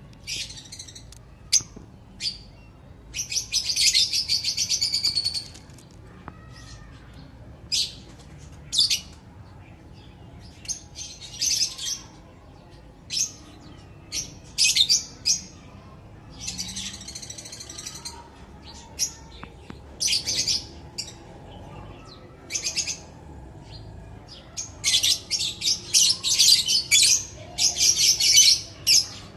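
Lovebirds chirping and chattering in shrill, rapid bursts, with a long run a few seconds in and a quick string of calls near the end.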